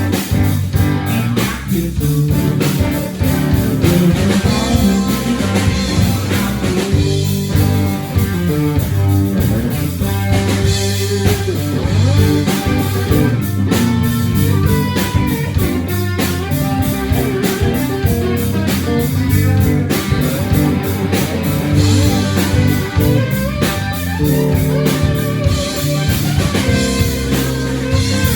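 Live blues-rock band playing an instrumental stretch of a song, with guitar leading over a drum kit.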